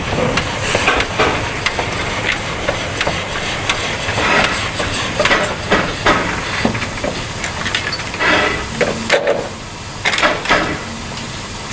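Narrow-gauge steam locomotive (Vale of Rheidol 2-6-2T No. 8) hissing steam, with scattered knocks and clanks and louder gusts of hiss about eight and ten seconds in.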